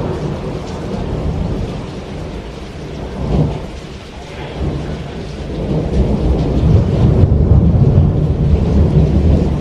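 Thunder rumbling over steady heavy rain, the rumble building about halfway through and loudest near the end.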